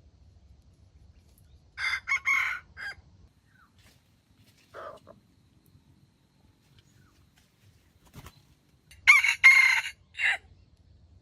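A rooster crowing twice, each crow short, about a second and a half long. The second crow, near the end, is the louder. Between the crows there is a brief softer call and a sharp click.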